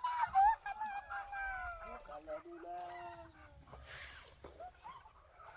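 Domestic chickens clucking and calling, with several drawn-out falling calls in the first three or four seconds.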